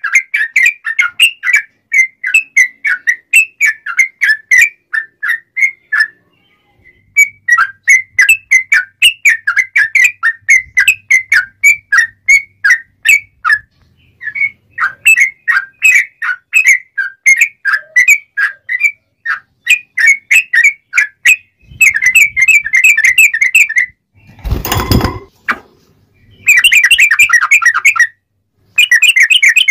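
Yellow-vented bulbul (trucuk) singing in quick chattering phrases of clear, loud whistled notes, with a few short pauses. Later the notes speed up into fast trilled runs. About two-thirds of the way through, a loud harsh burst of noise lasts half a second.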